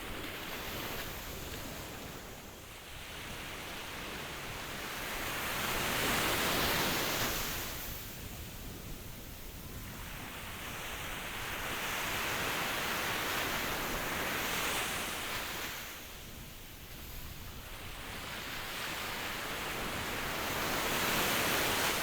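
Ocean waves breaking and washing in, a steady rush of surf that swells and ebbs about every seven or eight seconds.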